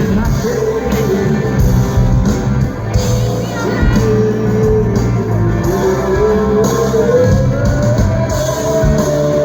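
Live rock band playing, with electric guitar and drums and a strong held melody line that dips and then rises in pitch about two-thirds of the way through.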